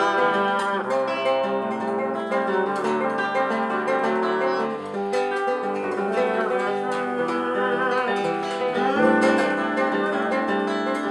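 Acoustic guitar playing an instrumental passage between sung verses of a Russian bard song.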